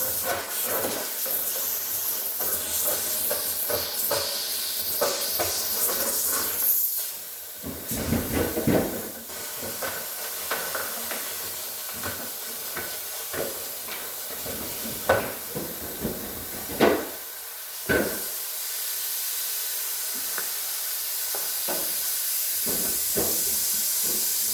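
Steady hissing while the iced-up freezer evaporator of a Whirlpool refrigerator is being defrosted, with a few sharp knocks and clatters about halfway through and again near the end.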